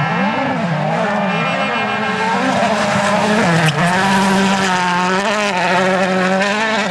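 Rally car engine running at high revs, its pitch rising and falling quickly and repeatedly, with a brief sharp crack about three and a half seconds in.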